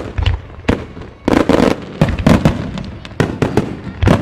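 Wide starmine fireworks: shells launching and bursting in rapid succession, several sharp reports a second, overlapping into dense loud volleys.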